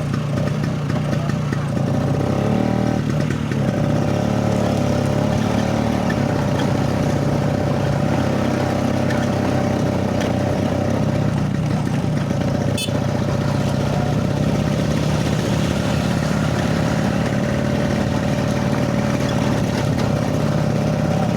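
Vespa scooter's engine running steadily under way, its revs rising briefly about two to three seconds in. A single sharp click comes just past halfway.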